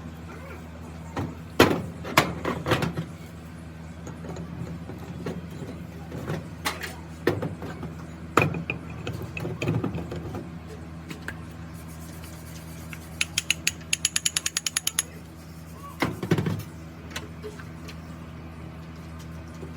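Hand tools working on metal: scattered sharp knocks and clanks over a steady low hum. About two-thirds of the way through there is a quick run of about a dozen even clicks.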